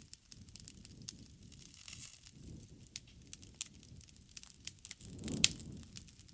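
Wood fire crackling: irregular sharp pops and snaps over the soft low rumble of the flames, with the loudest pop about five seconds in.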